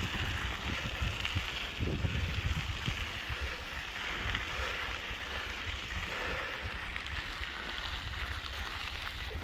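Wind rumbling on the microphone while riding a bicycle along a trail, over a steady hiss.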